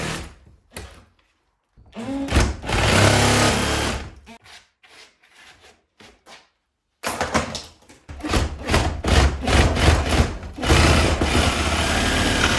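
Reciprocating saw cutting through the nails that hold a window frame, in bursts: one of about two seconds, a few short spurts, then a long steady cut through the second half.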